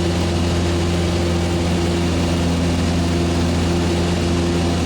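Steady drone of a propeller aircraft's engine, heard from inside the cabin of the climbing jump plane: a deep even hum with a few steady tones above it.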